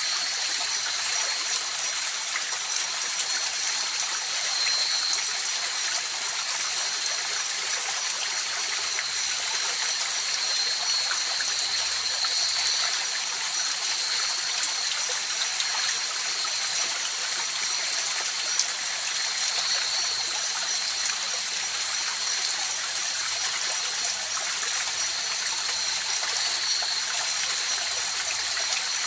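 River water rushing and trickling steadily over stones, with a steady high-pitched tone above the water noise.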